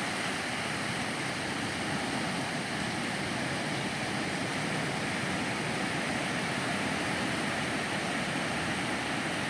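Ocean surf breaking and washing steadily on a sandy beach, an even rushing noise.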